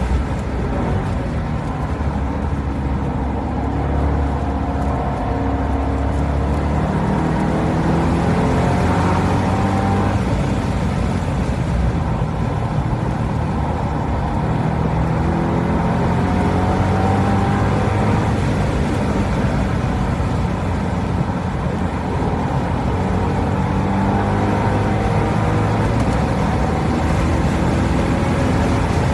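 C6 Corvette Grand Sport's LS3 V8 engine at racing speed, its pitch repeatedly climbing under hard acceleration and dropping on gear changes and lifts.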